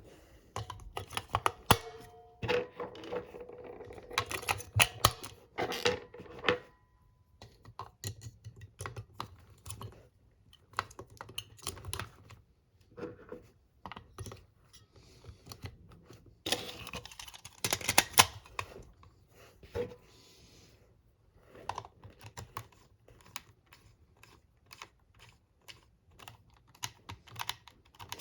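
A long run of irregular sharp clicks and taps, dense and fast in the first six seconds, then sparser, with another dense flurry about two-thirds of the way through.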